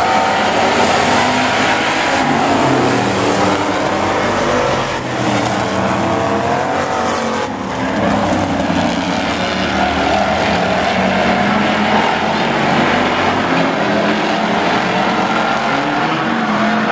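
Several demo-race pickup trucks' engines revving and running together around an oval track, their pitches rising and falling as they overlap.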